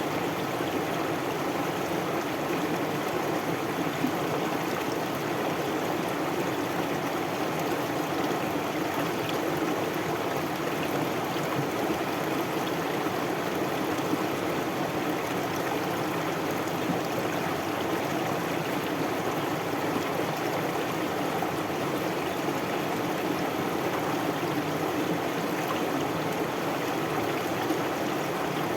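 Stream water flowing, a steady, even rush with no change in level.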